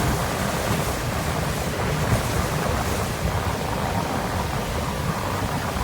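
Wind buffeting the microphone and water rushing past a motorboat under way, a steady low rumble beneath.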